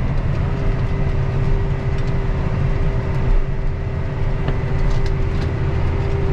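Tractor engine running steadily while pulling a grain cart, heard from inside the cab: a low rumble with a steady whine over it.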